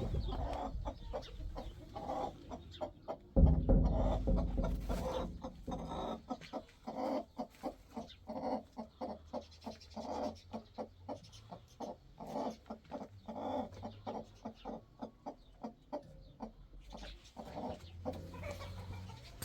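Chickens clucking in a run of short, quick calls. A loud low thump about three and a half seconds in is the loudest sound.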